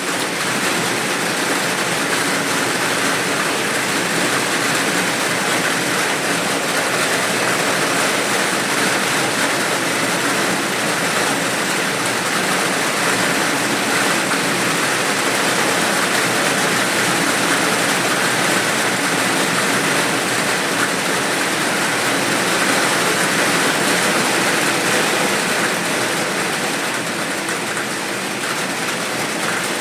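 Steady heavy rain, a dense even hiss without separate drops standing out, easing slightly near the end.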